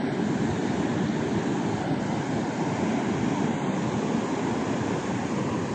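Rough surf on a sandy beach, a steady rushing noise of waves breaking, with wind buffeting the microphone.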